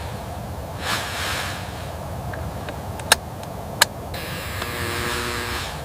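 Campfire crackling over a steady low rumble, with two sharp pops less than a second apart and a hissing stretch near the end.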